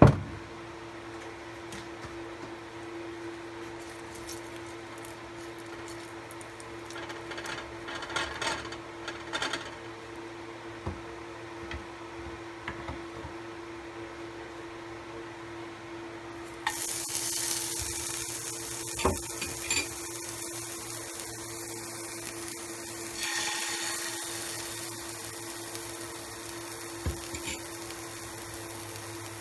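Hot oil in a nonstick frying pan, quiet apart from a few faint clicks, until a bell pepper ring goes in about halfway through: a sudden sizzle starts and carries on steadily, swelling again a few seconds later, with a sharp knock in between.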